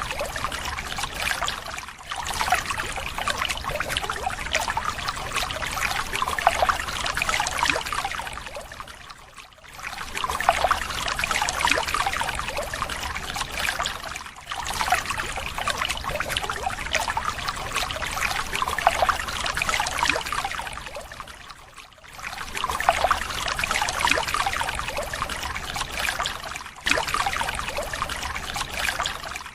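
Water running and pouring steadily, a dense splashing rush broken by a few short dips.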